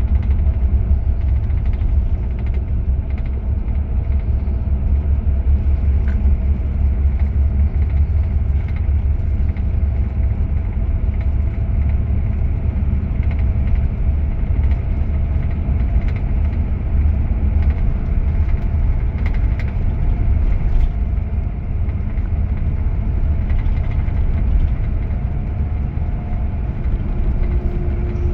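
Steady low rumble of engine and road noise inside the cabin of a Scania K410IB coach under way.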